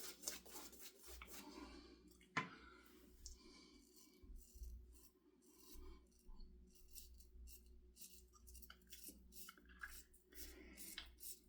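IBC Kamasori shavette blade scraping through lathered stubble in short, faint strokes, a crisp rasp of hairs being cut. One sharp click about two seconds in.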